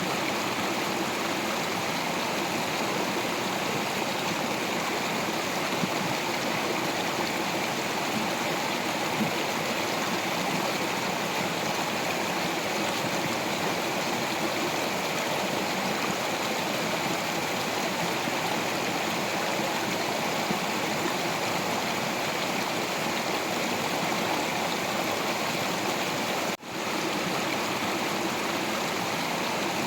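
Stream water flowing over rocks: a steady, even rushing and gurgling. The sound briefly drops out and comes back about 27 seconds in.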